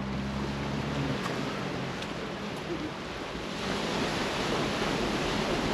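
Sea surf washing on the shore, a steady rush that swells louder about three and a half seconds in as a wave comes in. A low steady hum is also heard during the first second and stops.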